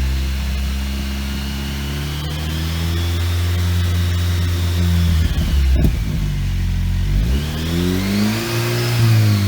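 Jeep Wrangler JL's 2.0-litre turbocharged four-cylinder engine running through a Borla Touring aftermarket exhaust, being revved. The engine speed holds, dips and rises again, drops about halfway, then climbs in one rev and falls away near the end.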